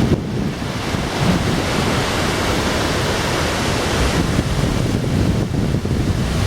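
Steady roar of rushing water, with wind buffeting the microphone in uneven low rumbles.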